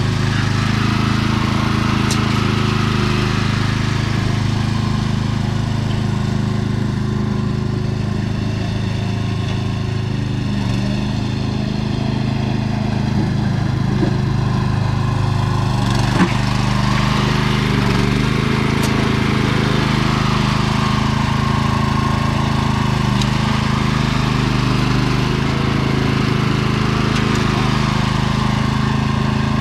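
Sears 10XL garden tractor's engine running steadily under load while pushing dirt, with a single sharp knock about halfway through.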